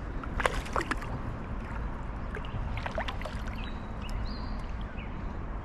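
Steady rush of creek water with a few short splashes, as a hooked smallmouth bass is drawn in to hand.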